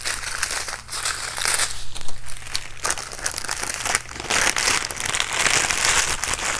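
Small plastic bags of diamond-painting drills crinkling as they are handled, with irregular rustling and light crackles throughout.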